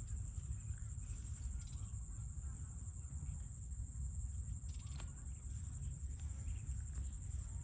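Outdoor ambience: a steady high insect drone over a low rumble, with faint chirps and a single sharp click about five seconds in.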